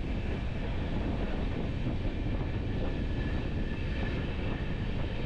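Visakhapatnam–Kirandul passenger train running along the line: a steady rumble of wheels on track.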